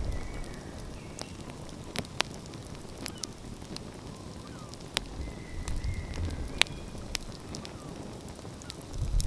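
Wood fire crackling outdoors, with sharp scattered pops and snaps. Underneath is a low rumble that swells near the end.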